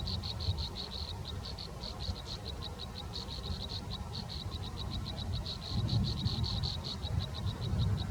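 A steady, rapid train of short high-pitched chirps, several a second, from a small animal chorus, over a low rumble.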